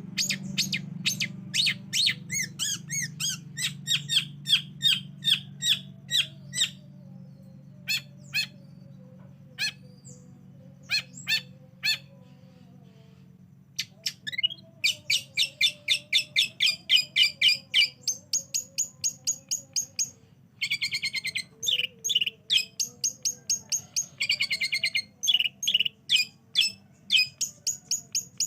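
Long-tailed shrike (cendet) calling in fast series of sharp, repeated high notes, about four or five a second. It breaks off for a couple of seconds around the middle, then resumes with harsher, buzzier notes.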